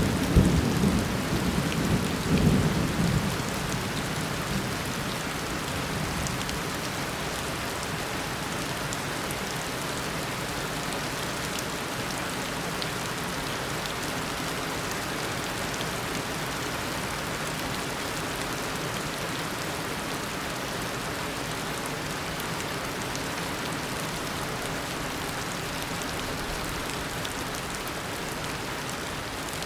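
Heavy tropical downpour: steady rain hitting surfaces. The tail of a thunder rumble dies away over the first few seconds, leaving the rain alone.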